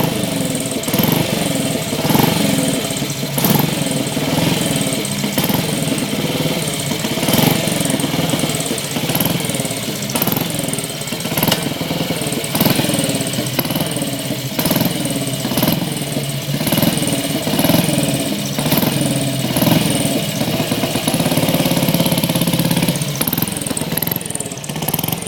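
BSA Gold Star DBD34's 500 cc single-cylinder four-stroke engine running just after a cold start, its note swelling and easing every second or so.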